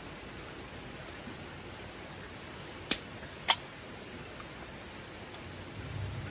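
Two sharp clicks about half a second apart, over a faint steady outdoor background.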